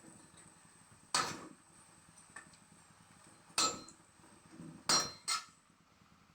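Metal utensils clinking and knocking against dishes: four sharp strikes, the last two close together, some with a short ringing.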